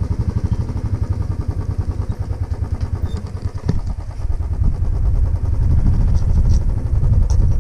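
Motorcycle engine running close by with a fast, even low thumping beat, easing slightly about halfway and picking up again.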